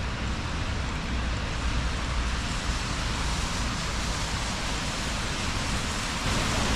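Steady rain with the hiss and low rumble of traffic on wet city streets.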